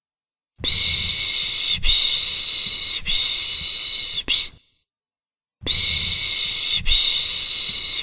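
A person making the rhythmic 'pış pış' shushing sound to lull a baby to sleep: long hissing shushes of about a second each, three in a row ending in a short one, then a second's pause before the next run begins.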